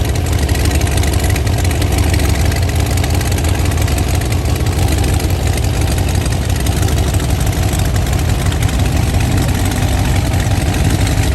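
Classic car's engine idling steadily with a low, even sound.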